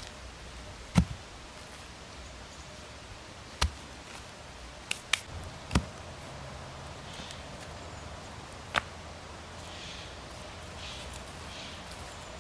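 Six sharp knocks at irregular intervals, the first about a second in and the loudest, with faint rustling in the second half.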